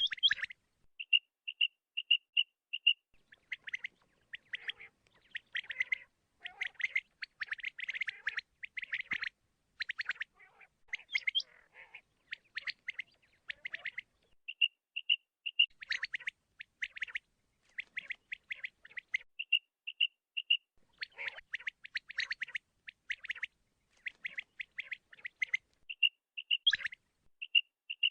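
Quail calling: runs of four to six short, clear, high notes alternate with harsher raspy bursts, over and over.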